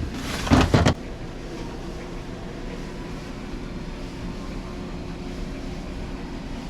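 A brief loud knock or handling sound under a second in, then a steady low mechanical hum carrying faint, constant tones.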